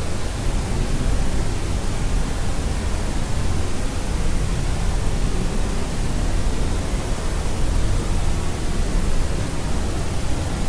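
Steady white noise for sleep: an even, unbroken hiss with more weight in the low end than the top, like pink noise.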